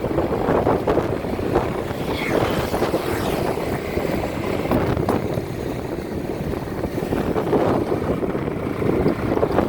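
Continuous rumbling noise, with gusting wind buffeting the microphone.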